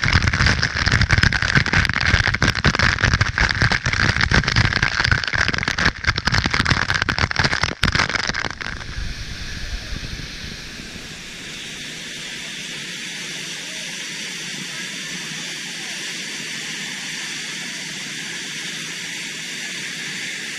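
Waterfall water pouring onto the phone and its microphone: a loud, crackling rush for about the first nine seconds, then a steadier, quieter rushing hiss.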